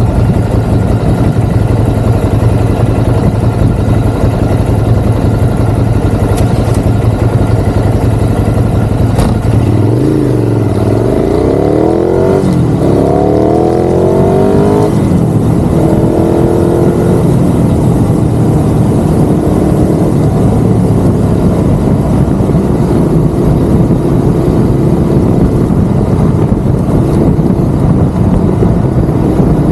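Ducati Monster's L-twin engine running under way. About ten seconds in it revs up and down several times for around five seconds, then settles back to a steadier note.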